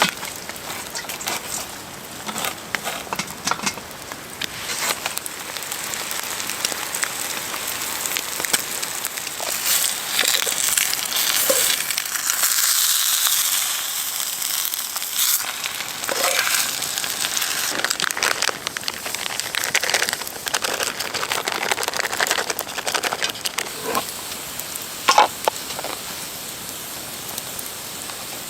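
Campfire crackling with many sharp pops over a steady sizzling hiss. The hiss grows louder for a few seconds around the middle.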